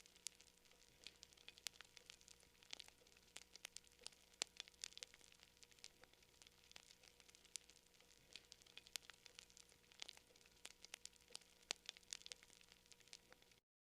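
Campfire crackling, with irregular sharp pops several times a second. The sound cuts out for a moment near the end.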